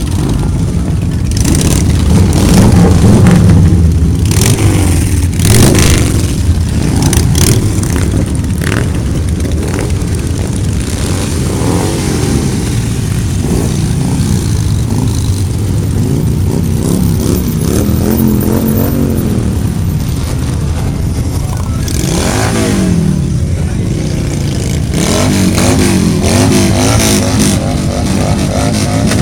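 Car and motorcycle engines revving at low speed, their pitch rising and falling over and over, with several sharp cracks among them.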